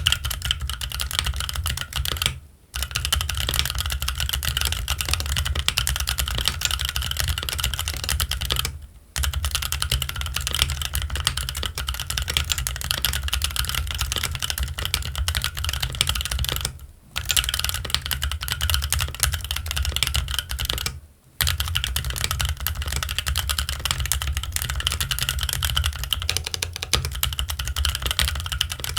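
Fast, continuous typing on a Keychron Q1 mechanical keyboard with Gazzew Boba U4T tactile switches and Cherry-profile ABS keycaps, the keystrokes running together in a dense clatter. It breaks off briefly four times.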